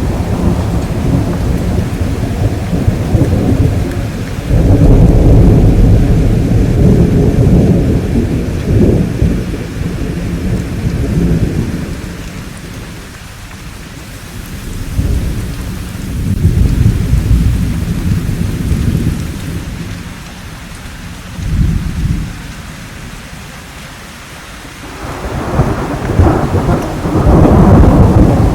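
Thunderstorm: steady rainfall with deep rolls of thunder that swell and fade, the strongest a few seconds in and again near the end, with a quieter stretch of rain between.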